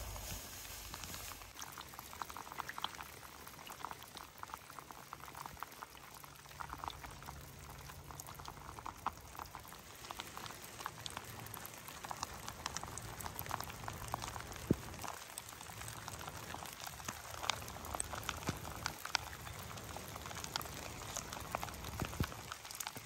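Water bubbling and trickling: a dense, irregular patter of small splashes and gurgles.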